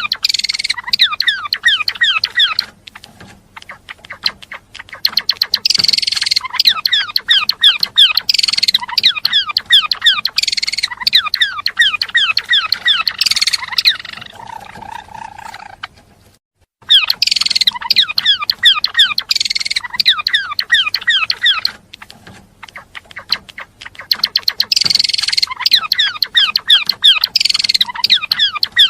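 Gelatik belong songbird singing: fast bursts of short, high, downward-sliding notes in quick succession, broken by a few brief lulls and one short silence just past halfway.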